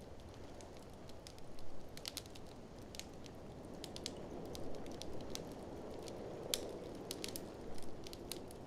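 Wood fire in a fireplace crackling, with irregular sharp pops, some in quick clusters, over a steady low rushing sound.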